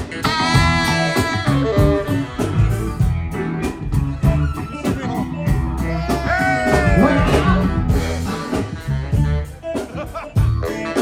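Band music with guitar, in a blues style, over a steady bass line.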